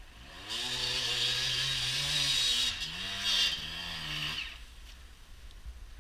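Enduro motorcycle engine revving hard on a steep hillclimb. The revs rise and hold, dip once, climb again, then stop about four and a half seconds in as the bike tips over.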